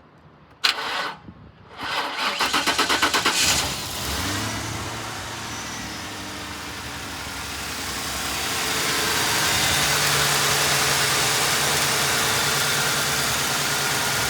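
2010 Ford Crown Victoria Police Interceptor's 4.6-litre V8 cranked over and started on a little fuel poured directly into the intake, since its fuel pump is bad. A brief loud noise comes about half a second in, then the starter cranks in quick, even pulses for about a second and a half before the engine catches at about four seconds and settles into a steady run that grows louder.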